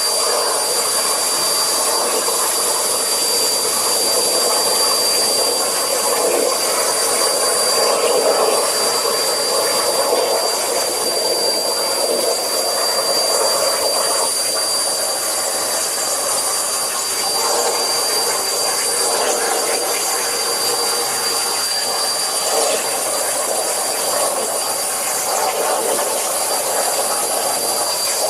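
CNC drilling-and-cutting machine at work: a loud, steady hiss with a constant high-pitched whine.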